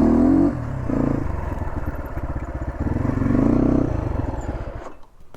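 Motorcycle engine revving on a rough off-road track, its pitch climbing twice with rattling underneath, then the sound cuts off about five seconds in.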